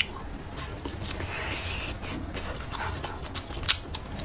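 Close-miked chewing and mouth sounds of a person eating braised meat: wet clicks and smacks, a sharp one right at the start and another near the end, with a short hiss about a second and a half in.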